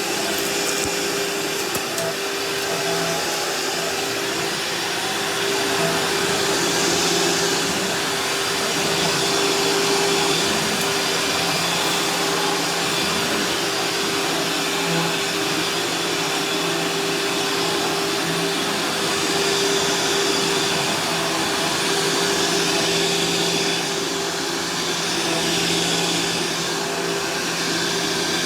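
Bagless vacuum cleaner with a dust cup running steadily while vacuuming the kitchen floor: a constant motor hum over rushing suction noise, swelling and easing slightly in loudness.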